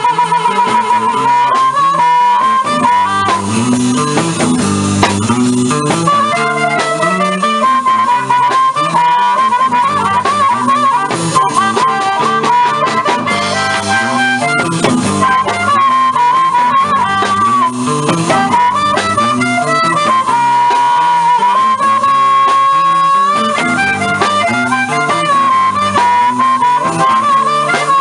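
Live blues band playing an instrumental break: a bending harmonica lead over a repeating guitar riff.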